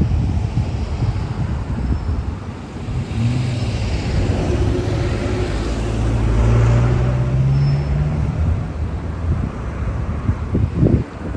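A road vehicle's engine passing close by, its note rising steadily as it accelerates, with wind buffeting the microphone.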